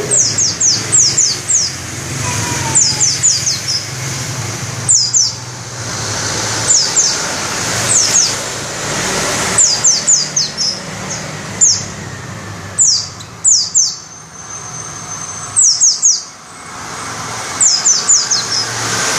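A pleci (white-eye) singing: quick runs of two to five high, downward-sliding whistled notes, repeated every second or two.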